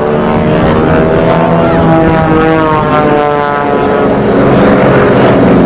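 Propeller airplane engine droning as it flies past, its pitch falling partway through.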